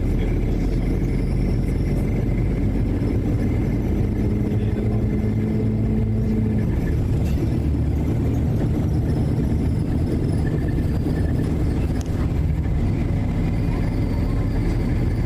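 Steady low rumble of a vehicle's engine and running noise, with a low hum that shifts slightly in pitch partway through.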